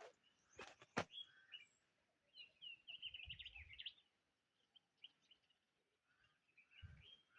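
Mostly near silence, with a bird's faint quick run of short chirps about midway and a couple of sharp clicks about a second in.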